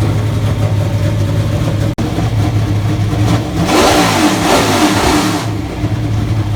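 Race car engine idling steadily, then revved once about three and a half seconds in, its pitch rising and falling over about two seconds before it settles back to idle. The sound cuts out for an instant about two seconds in.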